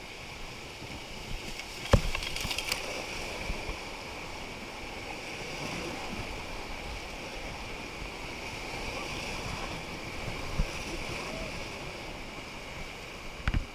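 River water rushing steadily around a paddled inflatable raft, with a sharp knock about two seconds in and another near the end.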